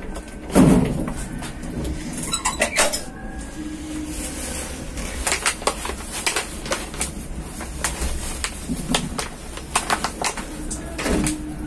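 Passenger train coach in motion: a steady low rumble of the wheels on the track with frequent irregular clanks and rattles from the carriage.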